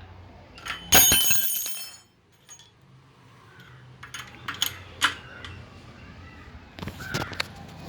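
Metal-on-metal clinks from a spanner turning a long bolt to press a new engine foundation bush into a scooter engine: a loud metallic clink with ringing about a second in, then scattered lighter clicks.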